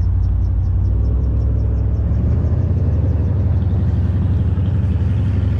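Steady low rumble of wind buffeting the microphone, with a faint rapid ticking in the first half.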